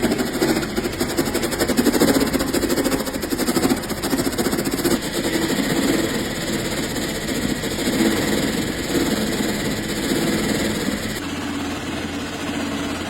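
An engine running steadily with a fast, even beat. The sound changes abruptly about eleven seconds in.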